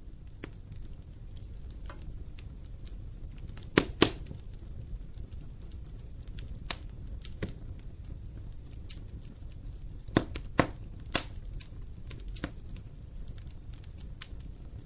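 Wood fire in a fireplace crackling, with sharp pops scattered over a steady low rumble of the flames; the loudest pops come as a pair about four seconds in and three more a little after the ten-second mark.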